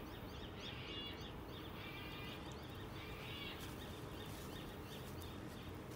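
Small birds chirping over a steady outdoor background hum, with short runs of calls about a second in, around two seconds in, and again around three and a half seconds in.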